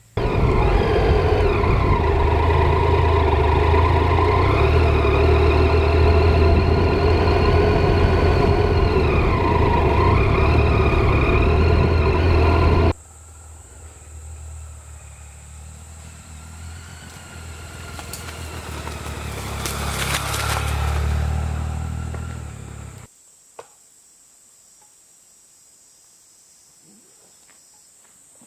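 Motorcycle engine running under way, its pitch dipping and rising with the throttle. About 13 seconds in it cuts to a quieter engine sound with a steady high whine that swells and then stops abruptly, leaving only faint clicks.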